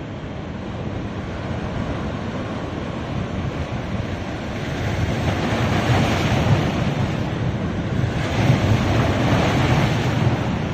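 Sea waves breaking and washing up a beach in a steady rush of surf, swelling twice: once around the middle and again near the end.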